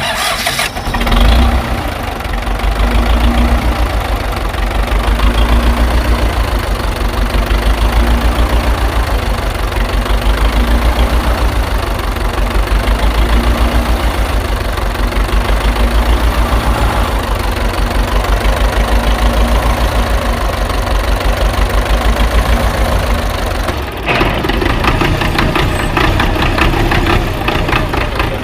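A tractor-type engine running at a steady chugging idle, swelling in level about every two and a half seconds. About 24 seconds in it changes to a busier, clattering run.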